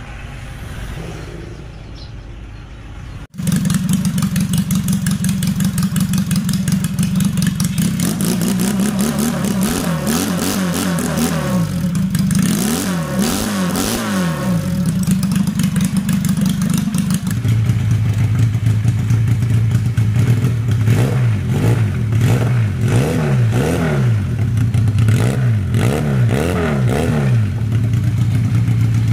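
Homemade 250cc two-cylinder conversion of a Honda Wave motorcycle engine running, starting suddenly about three seconds in and blipped up and down in repeated revs between spells of steady idle.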